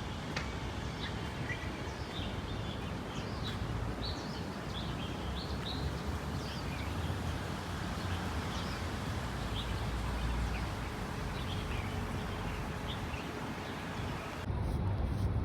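Many short, high chirping calls from small animals, scattered irregularly over a steady low rumbling noise. Near the end the background noise abruptly gets louder.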